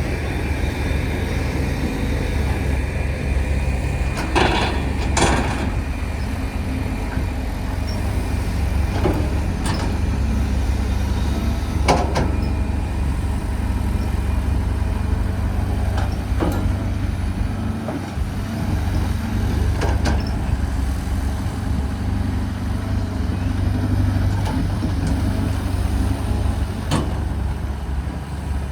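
Diesel engines of excavators working, a steady low rumble, with sharp metal clanks every few seconds.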